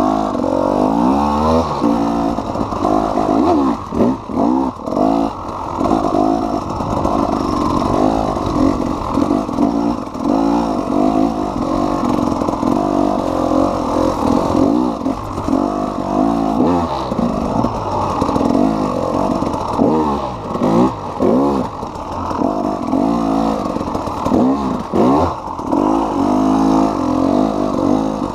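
KTM EXC 300 single-cylinder two-stroke enduro motorcycle being ridden hard, its engine revving up and falling back again and again, with several brief throttle chops.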